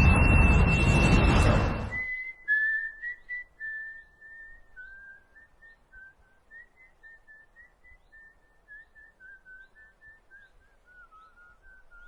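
A loud rushing swell carrying one high held whistle note for about two seconds, then a faint whistled melody of short single notes that drifts slowly lower and fades.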